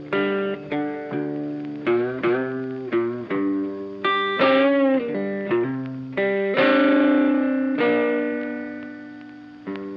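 Background music: a guitar picking a melody, note by note. About seven seconds in it holds a chord that rings and slowly fades.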